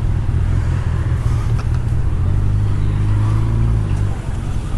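A motor vehicle's engine running close by in the street: a steady low drone that is strongest about halfway through.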